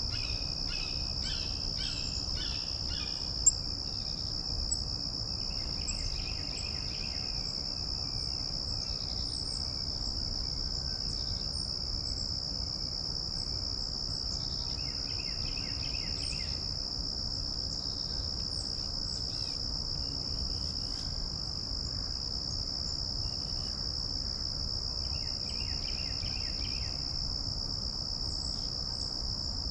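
Steady high-pitched drone of a chorus of insects, with a songbird singing short phrases of repeated notes four times over it and a low rumble of breeze on the microphone. A single sharp click sounds a few seconds in.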